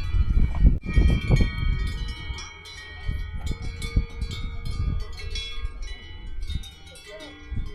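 Many Swiss cowbells clanging irregularly on grazing cattle, with overlapping ringing tones and frequent strikes. Low rumbling noise under them is loudest in the first couple of seconds.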